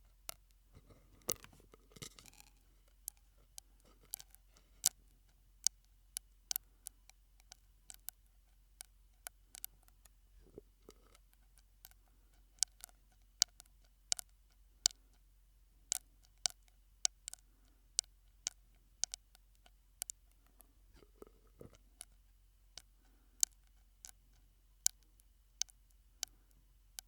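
ASMR mouth sounds made through a drinking straw: sharp clicks and pops at an uneven pace, around two a second, with a few softer, longer mouth noises in between.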